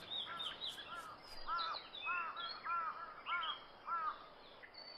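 Birds calling: a repeated arched call about twice a second, with quicker, higher chirps sweeping down between them, stopping shortly before the end.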